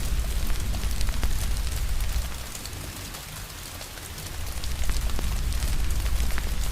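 Steady rain hiss with scattered sharp crackles and pops from a wood fire over a low rumble. The rumble fades out for about two seconds in the middle and then returns.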